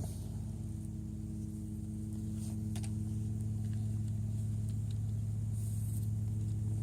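A steady low machine hum with a few faint clicks about two and a half seconds in.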